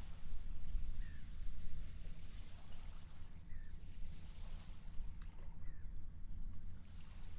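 Harbor seaside ambience: water washing in slow swells over a steady low rumble of wind and sea. Three short, faint seagull calls come through, about a second in, in the middle, and near the end.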